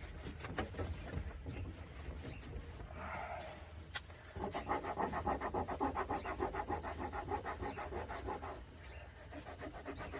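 Hand rubbing or scrubbing a surface, with scattered scuffs, a sharp click about four seconds in, then about four seconds of quick back-and-forth strokes.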